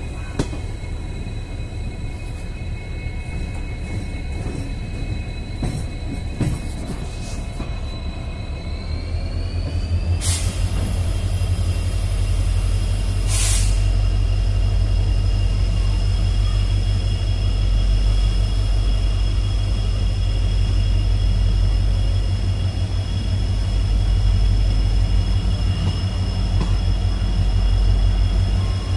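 Train running on the rails: a steady low rumble of wheels on track with thin, steady high whining tones that rise in pitch about nine seconds in. Two short, sharp noise bursts come around ten and thirteen seconds in, and the rumble grows louder from about ten seconds on.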